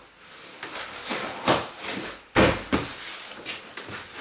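Rustling and knocking from clothes being stuffed into a box for packing, with a sharp knock about two and a half seconds in.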